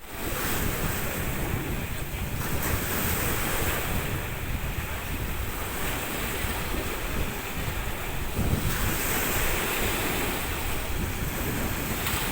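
Sea waves washing in a continuous rush, with wind buffeting the microphone.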